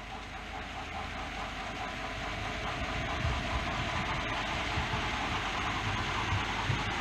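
OO gauge model train running along the layout's track, a steady rolling and motor noise that grows slowly louder as it approaches.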